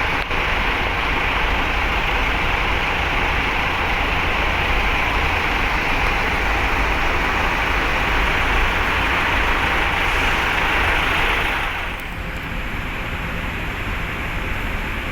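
Heavy truck engines running, a steady low rumble under a loud even hiss. About twelve seconds in, the hiss falls away and the sound gets somewhat quieter.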